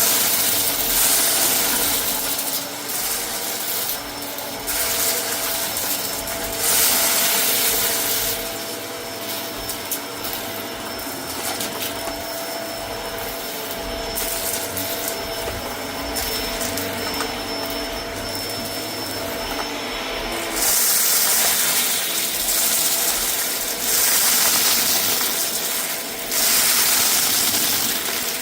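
Vacuum cleaner running with a steady motor whine, its suction hiss swelling and easing every few seconds as it is worked back and forth over a rug.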